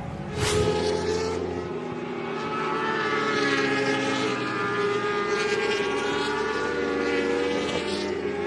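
Several superbike racing motorcycles running at high revs, their engine notes overlapping at steady pitches with small rises and falls. A short sharp burst of noise about half a second in.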